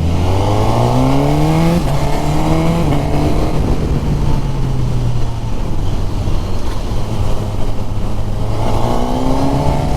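Suzuki Katana's K5-derived inline-four engine under way. The revs climb, dip at a gear change just under two seconds in, and climb again. They then hold fairly steady, with another climb near the end.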